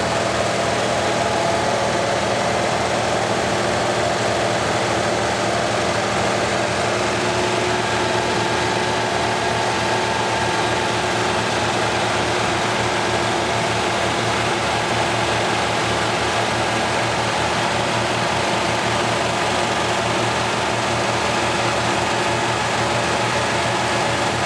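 Two old truck engines, a GMC's and a Ford's, running steadily and flat out in an endurance test meant to run them until they burn up.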